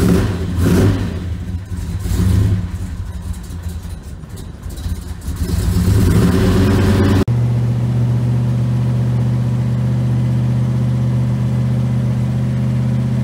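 1966 Chevrolet Chevelle engine running just after a cold start, revved unevenly with a few short blips and a longer rise. After about seven seconds it settles into a steady, even idle.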